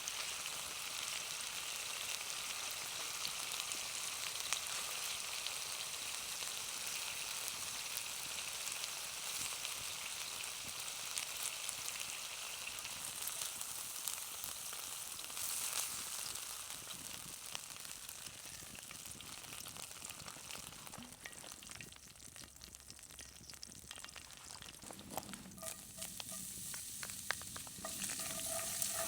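Chicken wings sizzling over a campfire: a steady frying hiss with scattered small pops, easing off for a few seconds about three-quarters of the way in.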